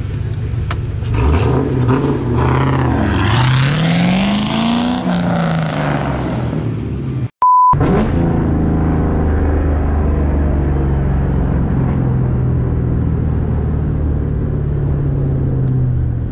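Ford Mustang GT's 4.6-litre two-valve V8 with a straight-piped, catless exhaust, pulling hard through the gears of its five-speed manual: the revs climb, dip, climb again to a peak about five seconds in, then fall away. Halfway through a short steady beep cuts in, and the engine settles into a steady cruising drone.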